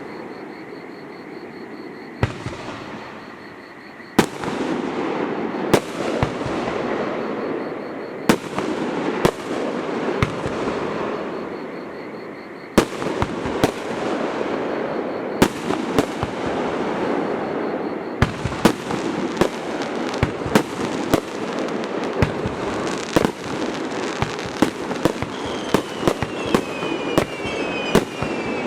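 Aerial fireworks shells bursting in the open, each sharp bang followed by echoing rumble from the surrounding valley. Bursts come a few seconds apart at first, then quicken into a dense barrage from about two-thirds of the way through. Short falling whistles join in near the end.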